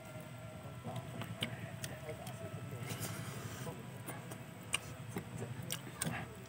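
Close-miked chewing and crunching of fried chicken, with scattered sharp clicks from the mouth and the fingers picking at the pieces.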